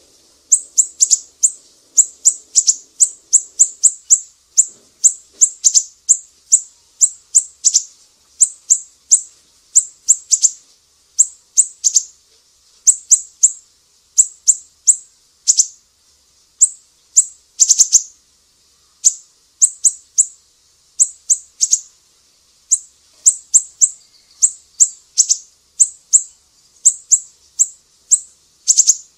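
Recorded songbird masteran track combining cililin, lovebird and siri-siri calls: high, sharp chirps, each falling in pitch, repeated in quick clusters of two to four with short gaps between them.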